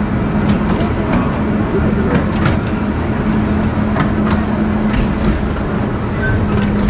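Akasawa Forest Railway train running on its narrow-gauge track: a steady low engine hum under running noise, with scattered sharp clicks and knocks from the wheels and rails. The hum drops away for a few seconds in the middle and comes back near the end.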